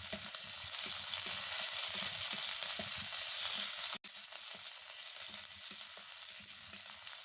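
Chopped tomato and fried onion sizzling in hot oil in a kadai, with light stirring strokes of a spatula now and then. The sound drops out for an instant about four seconds in and comes back a little quieter.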